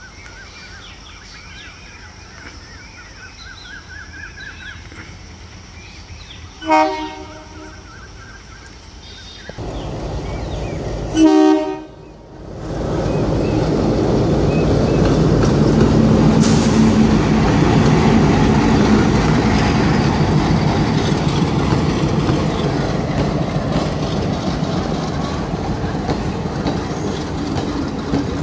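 Indian Railways passenger train approaching and passing: the locomotive horn sounds twice, a short blast about seven seconds in and a longer, louder one about four seconds later. Then the train's rumble and wheel clatter rise and run loudly as the coaches go by.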